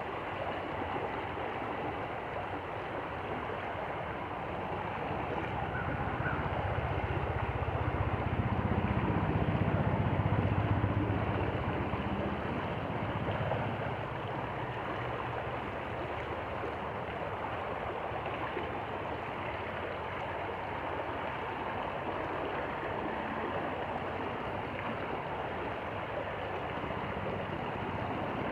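Stream water running steadily over stones. A low engine rumble from something passing swells from about five seconds in, is loudest around ten seconds, and fades away a few seconds later.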